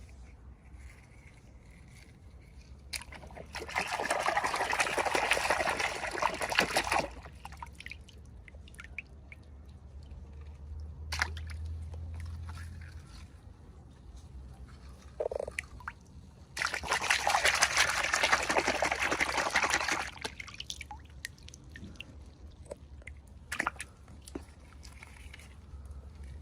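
Liquid being poured in two spells of about four seconds each, with small clicks and taps in between.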